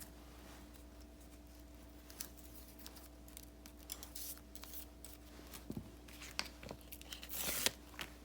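Paper and stickers being handled for diary decorating: scattered small clicks and rustles, then about seven seconds in a longer rasping sound like a sticker being peeled off its backing sheet.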